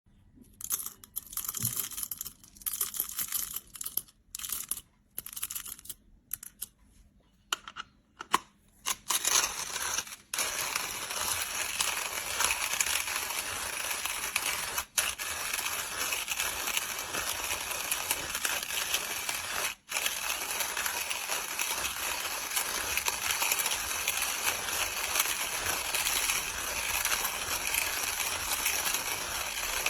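Stop-start rustling and clattering for the first several seconds, then a hand-cranked stainless-steel burr coffee grinder grinding beans in a steady, dense crackle, broken by two brief pauses.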